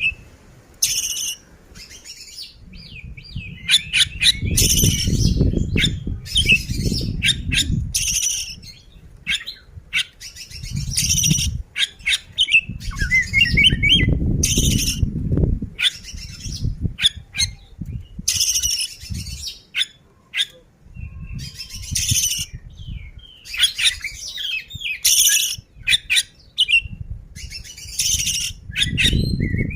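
Oriental magpie-robin (kacer) singing vigorously: harsh rasping calls alternate with short whistled phrases and chirps in quick, repeated bursts. Intermittent low rumbling runs underneath.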